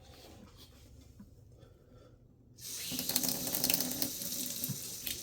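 A faucet turned on about halfway through, then water running steadily into a sink to rinse soap off a doll.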